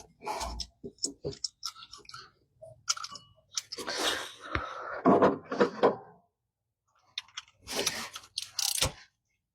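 Irregular clicks, scrapes and rustling of hand work on engine parts, with a longer scraping stretch about four to six seconds in and another shorter one near the end.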